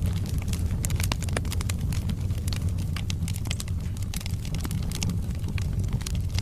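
Wood logs burning in a fireplace: a steady low rumble of flames with many irregular sharp crackles and pops of the burning wood.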